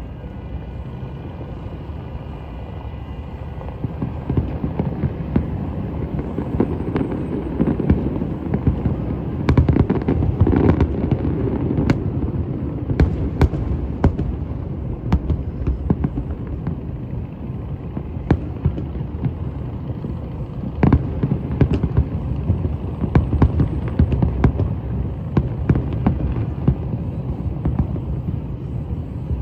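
Fireworks going off: a continuous low rumble of booms with many sharp bangs and crackles layered over it, growing heavier a few seconds in.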